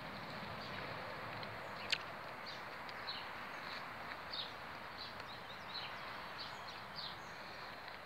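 Small birds chirping again and again over a steady outdoor hiss, with one sharp click about two seconds in.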